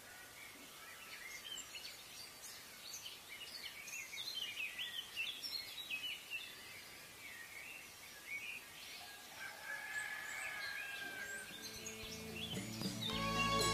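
Faint birds chirping in the background, many short high calls. Music fades in near the end.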